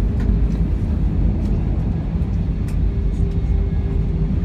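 Cabin noise inside an Airbus A320 on the ground just after landing: a steady low rumble from the engines and the aircraft rolling, with a faint steady whine coming in about two seconds in.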